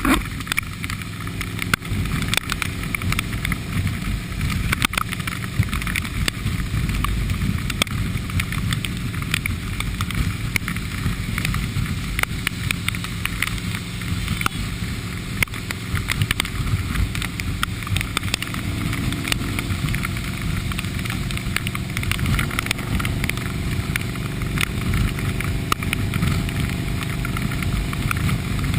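Motorcycle engine running steadily while riding in the rain, with a hiss of wind and wet road and many small ticks, which are raindrops hitting the camera.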